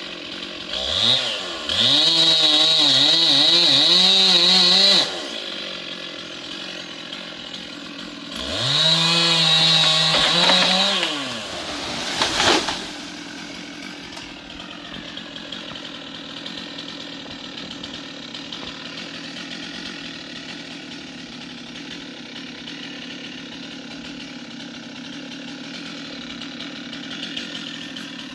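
Stihl two-stroke chainsaw revved to full throttle twice for a few seconds each, dropping back to idle between, with a single sharp knock about twelve seconds in. It then idles steadily for the second half.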